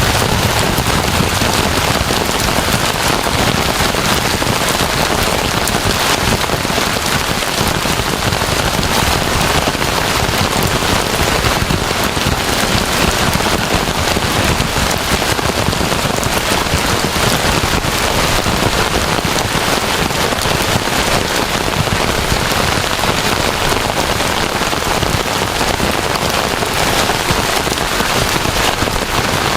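Heavy rain falling steadily and evenly, with no thunder.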